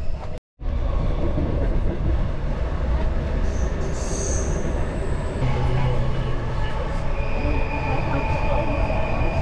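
Passenger train running on rails, heard from inside the carriage as a steady rumble, with its wheels squealing high around four seconds in and a steady high whine from about seven seconds in. The sound cuts out for a moment near the start.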